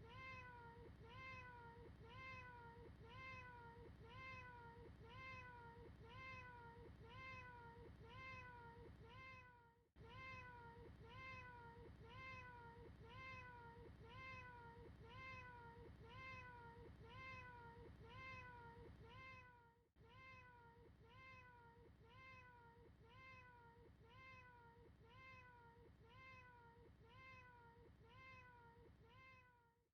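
Faint cat meow: the same short rising-then-falling call repeated over and over at about one and a half times a second, as a looped recording. The rhythm breaks briefly about every ten seconds.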